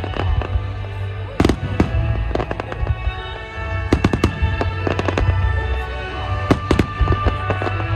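Fireworks shells bursting overhead: a continuous deep rumbling boom with many sharp cracks and bangs scattered through, while music plays alongside.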